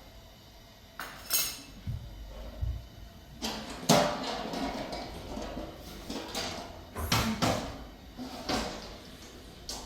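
A series of irregular knocks and clatters from objects being handled, the loudest about four seconds in.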